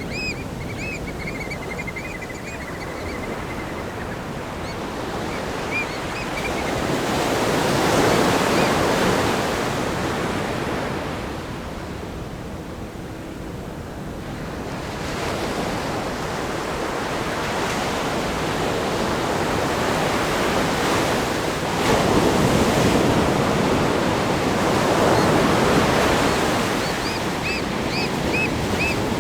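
Ocean waves crashing on a rock groin and washing over a sandy beach: continuous surf that swells into loud breakers about a third of the way in and again two-thirds of the way through. A bird chirps several times at the start and near the end.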